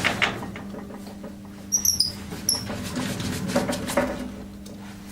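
Workshop handling noises: a few light knocks and scrapes of parts being moved about, with brief high metallic chirps about two seconds in, over a steady low hum.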